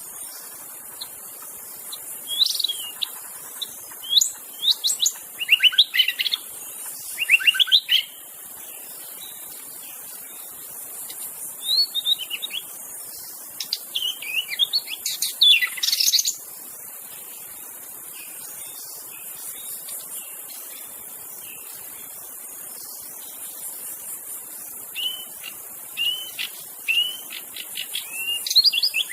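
White-rumped shama singing: quick runs of varied, sliding whistled notes in three bouts, with pauses between them. A steady high insect drone, like crickets, runs under the song.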